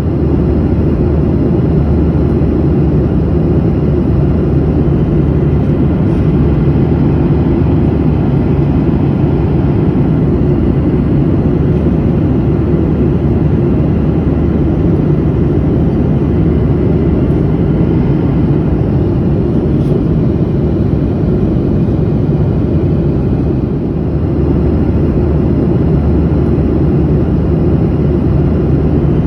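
Steady, loud low roar of a passenger airplane in flight heard from inside the cabin: engine and airflow noise that is strongest in the low end, with a faint steady hum running through it.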